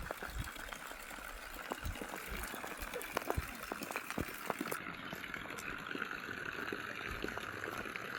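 Steady rain falling, a constant hiss with scattered drops ticking on nearby surfaces.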